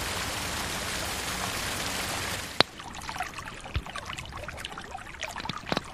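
Dense, even hiss of heavy rain and rushing runoff water, which cuts off with a click about two and a half seconds in. It gives way to quieter, scattered dripping and splashing of water.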